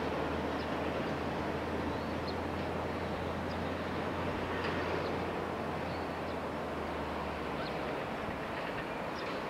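Wind noise on the microphone over the low hum of a distant electric train moving away; the hum stops about eight seconds in. Faint short high chirps come and go.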